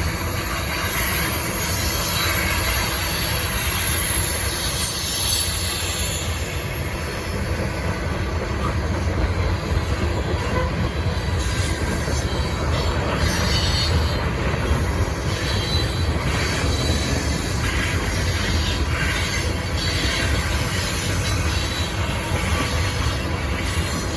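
BNSF coal train rolling past, a steady rumble of steel wheels on rail with a thin high wheel squeal in the first few seconds.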